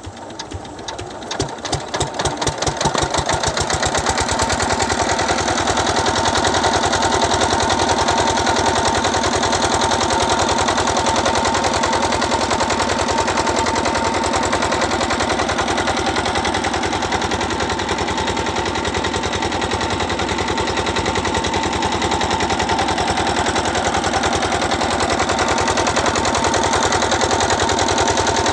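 Diesel engine of a water pump picking up speed over the first few seconds, its beat quickening and growing louder, then running steadily with a fast, even knocking beat.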